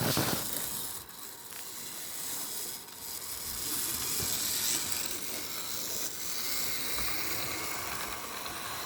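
HO-scale model train locomotive running on its track: a steady mechanical whir and rattle from the small motor, gears and wheels, with a brief burst of noise right at the start.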